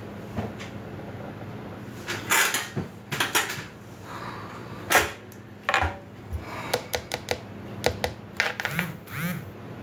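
Irregular clinks, knocks and short scrapes of metal grill parts and hardware being handled and fitted during assembly.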